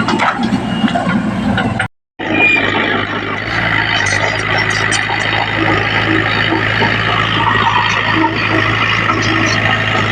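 Heavy diesel earth-moving machinery running steadily, with a short gap of silence about two seconds in.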